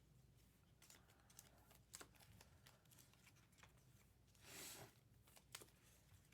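Faint, scattered light clicks and rustles of trading cards and plastic card holders being handled, with one brief soft swish a little past the middle.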